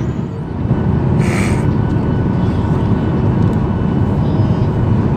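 Steady low roar of engine and airflow noise inside a jet airliner's cabin in flight, with a brief hiss about a second in.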